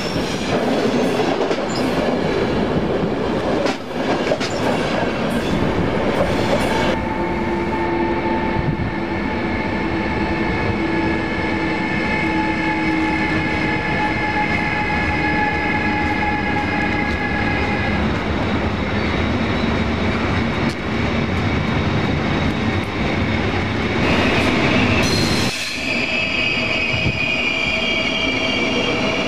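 Trains passing on the tracks close by: first coaches rolling past with wheel clatter, then an electric locomotive and a line of freight wagons with steady whining tones over the rumble of the wheels, and from about 25 seconds in an ICE high-speed train moving through a station hall with high steady whining tones.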